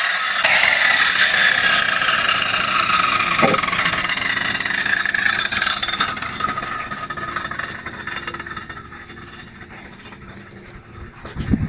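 Power tool motor spinning down after a cut through guadua bamboo, its whine falling slowly in pitch and fading away. A couple of low knocks near the end.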